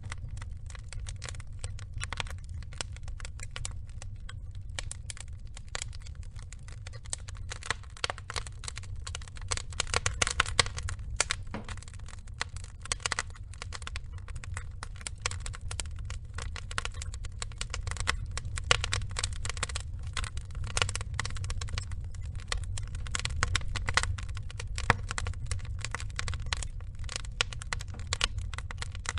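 Burning wood logs crackling and popping in an irregular patter of sharp snaps over a steady low rumble, with a cluster of louder pops about ten seconds in.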